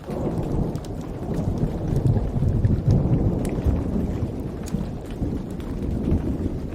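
A long roll of thunder that swells at once, peaks in the middle and slowly fades, over steady rain, with faint fire crackles scattered through it.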